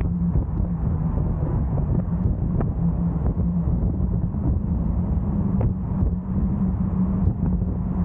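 Car driving along a road: a steady rumble of tyres and engine with a low hum, and a few faint ticks.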